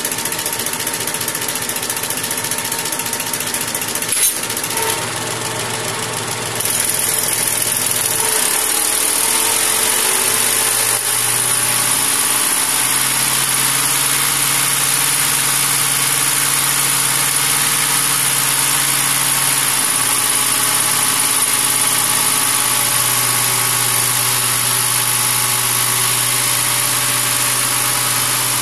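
Machinery running steadily, with a low hum. About six seconds in it gets louder and a thin high-pitched whine joins it, and both hold steady.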